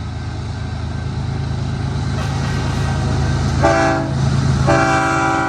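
Diesel locomotive engines rumbling steadily and growing louder as a train approaches, then a multi-tone locomotive horn chord: one short blast a little over three and a half seconds in, then a longer blast starting near the end.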